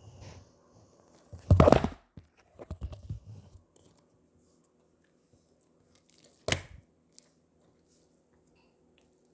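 Slime being played with by hand: a loud crackly burst about a second and a half in, a run of smaller crackles after it, and one sharp pop about six and a half seconds in.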